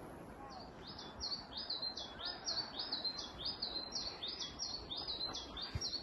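A songbird singing a fast run of repeated high notes, about three a second, starting about half a second in and going on without a break.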